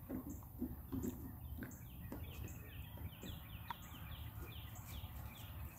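Outdoor ambience: a songbird gives a run of quick, falling chirps over a steady low background rumble, with a few soft, muffled low sounds in the first couple of seconds.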